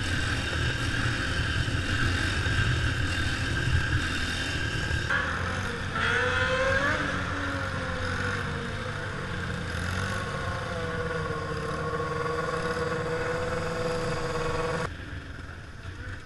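Small mini-bike engines revving and running, the pitch rising and falling with throttle, the sound changing abruptly a few times.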